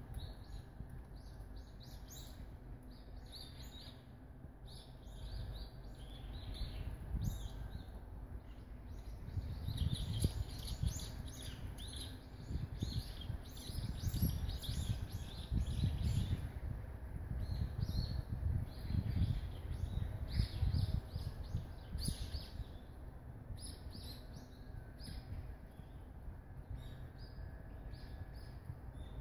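Small birds chirping in short, repeated calls all through, over a low rumble that grows louder through the middle stretch.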